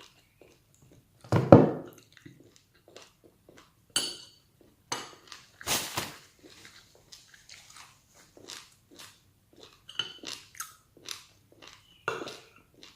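Close-up chewing and biting of food in a mukbang, with wet mouth smacks and scattered short clicks. The loudest sound is a single knock about a second and a half in.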